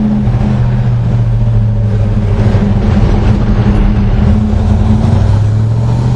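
Freshly rebuilt 396 big-block V8 of a 1966 Chevelle SS running while driving. Its note drops just after the start, then holds steady.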